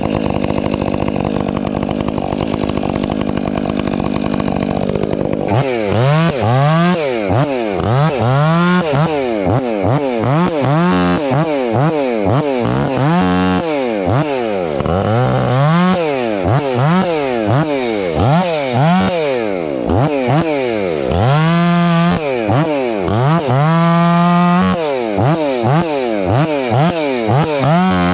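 Stihl 500i two-stroke chainsaw running at a steady high speed for about five seconds, then revved up and down over and over, about once a second.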